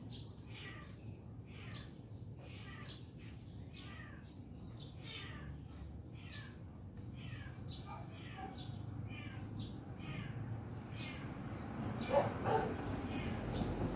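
Birds chirping over and over in short, quick falling notes, over a low steady rumble, with two louder, lower calls near the end.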